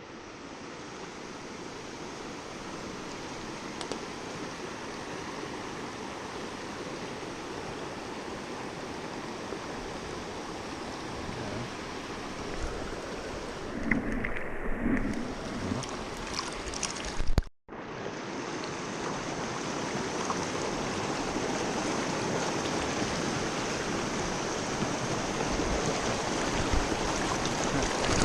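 River water flowing steadily, a continuous rushing noise, with a short louder disturbance about halfway. The sound cuts out for an instant a little after that and resumes slightly louder.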